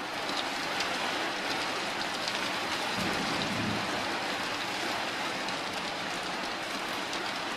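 Steady rain on the roof of a converted bus, heard from inside as an even hiss with scattered drop ticks, and a brief low rumble about three seconds in.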